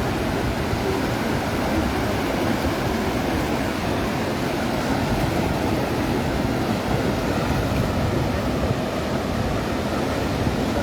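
Steady rushing noise of Atlantic surf washing on the beach, even throughout and heaviest in the low end.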